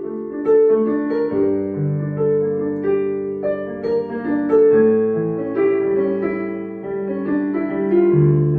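Instrumental break in a pop ballad's accompaniment: a keyboard plays slow, held chords over a low bass part, with no singing.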